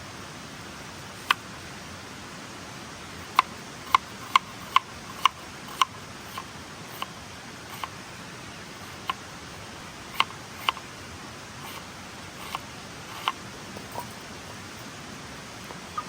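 Irregular sharp, light taps or clicks, a quick run of about six in the middle, over a steady hiss.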